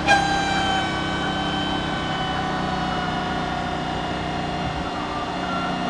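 Car engine held at steady high revs, its note starting suddenly and sagging slightly in pitch over several seconds.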